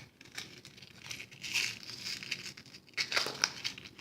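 Paper craft supplies being handled at a worktable: irregular rustling and crinkling of paper or packaging, with a cluster of small sharp clicks about three seconds in.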